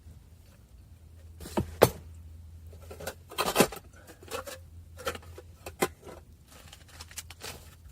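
Irregular knocks, clicks and clattering. The sharpest knock comes about two seconds in and a cluster of clatter follows a second and a half later, over a low steady hum.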